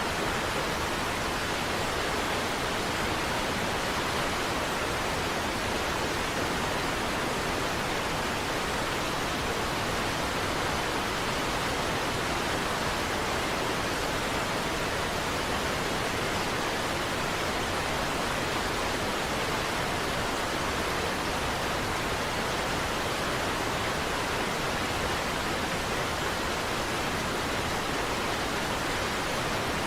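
Steady, unchanging rush of a large waterfall, an even hiss and rumble of falling water with no breaks or separate splashes.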